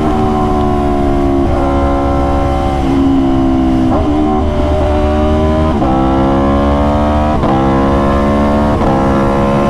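Aprilia RSV4's V4 engine running hard under way, its pitch climbing and dropping with a short break every second or two, as the bike changes gear.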